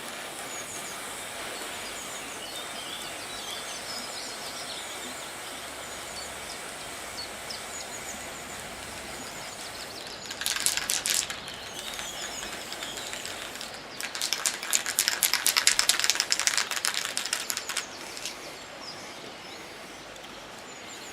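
Aerosol spray paint can being shaken, its mixing ball rattling rapidly in two bursts: a short one about halfway through and a longer one a few seconds later. Birds chirp faintly throughout.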